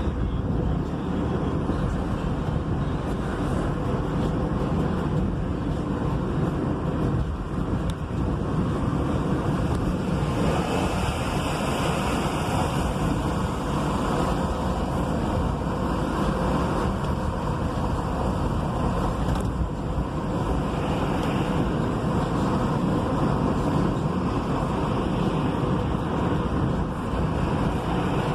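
Road traffic and wind rushing in through an open window of a moving vehicle: a steady drone of engines and tyres. A hiss swells for a few seconds around the middle, as a vehicle passes close by.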